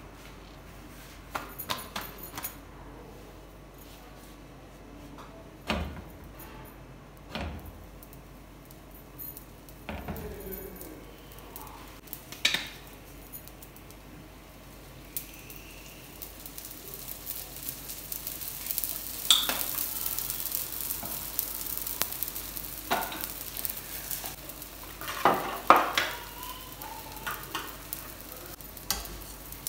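Paratha frying on a hot flat griddle (tawa): the sizzle of oil builds from about halfway through, after oil is poured onto the bread. Scattered sharp knocks and clinks of utensils and the pan, the loudest in the second half.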